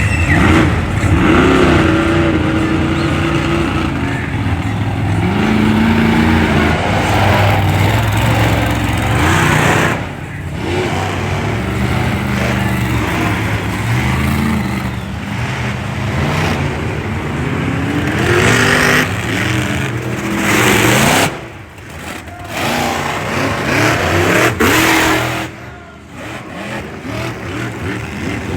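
Monster truck engines running and revving, their pitch rising and falling again and again. Two short sudden drops in loudness come in the second half.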